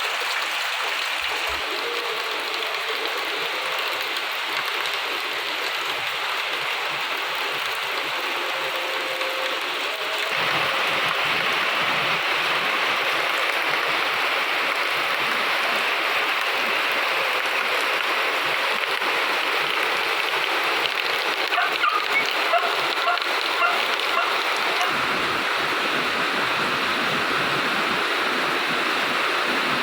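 Steady rain falling, an even hiss of water that grows louder and fuller about a third of the way in, as the rain gets heavier. A few brief sharper sounds stand out about two-thirds of the way through.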